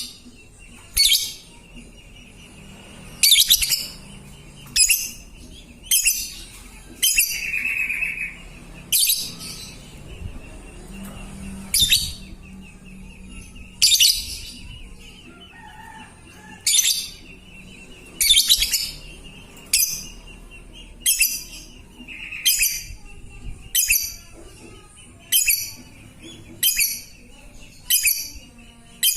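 Lovebird's long 'ngekek' chattering: sharp, shrill calls repeated about every second and a half over a steady high trill.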